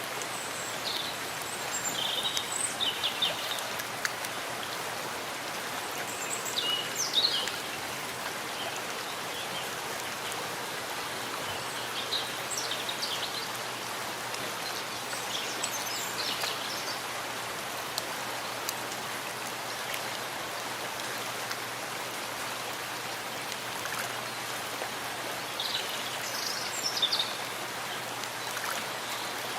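Steady rain falling in a forest, with a few short, high bird calls over it.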